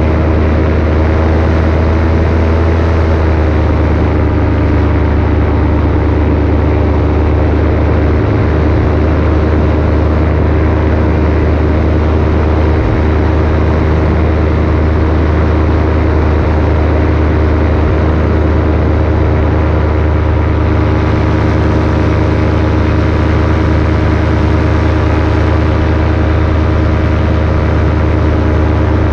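Paramotor engine and propeller running steadily in flight, holding a near-constant pitch.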